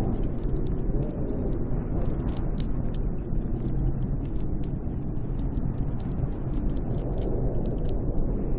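Snowstorm wind blowing steadily as a deep rushing rumble, with a faint wavering howl near the start and again near the end, and scattered faint clicks and ticks.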